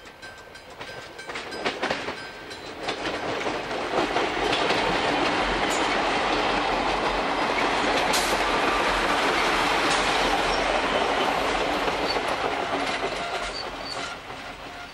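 Diesel railcar set passing close by: a steady rush of engine and wheel noise with clickety-clack over the rail joints. It builds up over the first few seconds and fades away near the end.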